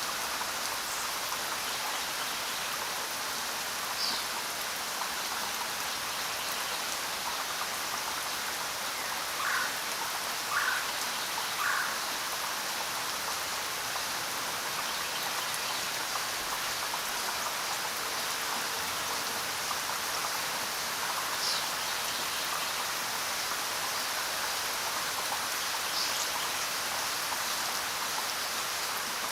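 Steady, even rainfall, with a few short sharper sounds standing out, three of them in quick succession about ten seconds in.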